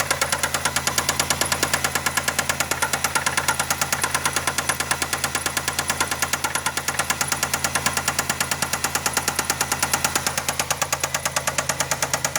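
Car engine idling with a fast, even knock, several strikes a second, which the owner suspects is a bad rod bearing.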